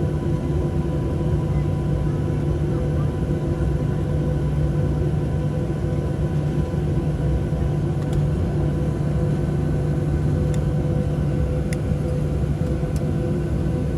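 Steady cabin noise of a Boeing 737-700 with its CFM56-7B turbofan engines running: a constant low rumble under several steady humming tones, heard from inside the passenger cabin. A few faint clicks come in the second half.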